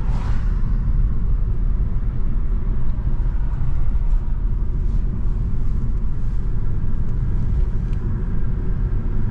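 Steady low rumble of a car driving, heard inside the cabin: road and engine noise.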